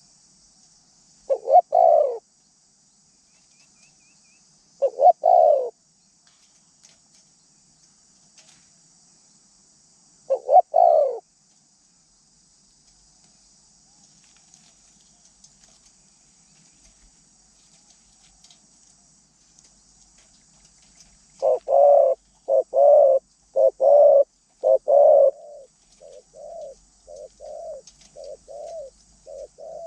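Wild dove cooing. Three single coos come several seconds apart, then a run of four louder coos about two-thirds of the way in, followed by a quick series of shorter, softer coo notes near the end.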